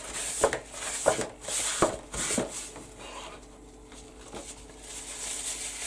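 Wiping and rubbing on the craft work surface with a few short scuffs and knocks in the first couple of seconds, then quieter handling of supplies.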